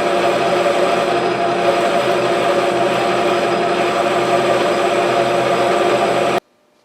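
Metal lathe running steadily with a constant multi-tone hum from its motor and gearing while cutting a thread relief groove in a lead screw blank; the sound cuts off suddenly near the end.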